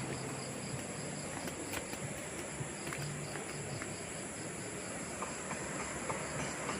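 Steady rushing noise of a flowing river, with an insect chirping in a regular pulse about four times a second.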